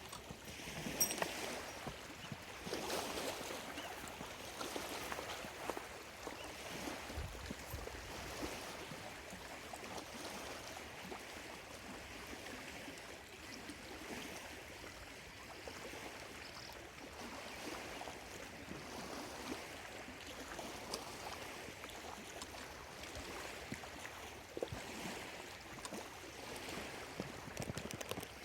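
Small lake waves lapping and washing against the shore, a steady wash of water that swells and eases every second or two.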